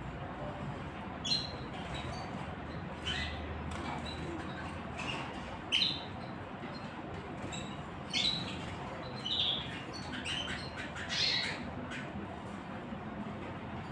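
Small wild birds giving short chirps and calls, one every second or two, over a steady background hiss of outdoor ambience.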